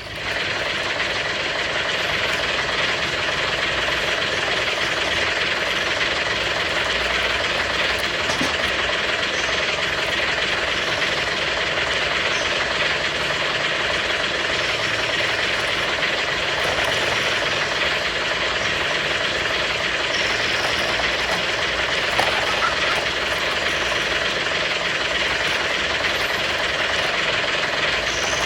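A small truck running, a steady rushing engine and road noise that doesn't change.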